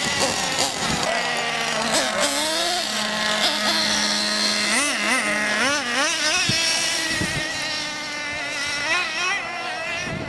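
Several nitro RC cars' small glow-fuel engines whining at once while racing, their pitch rising and falling quickly as the throttle is blipped and the cars pass by.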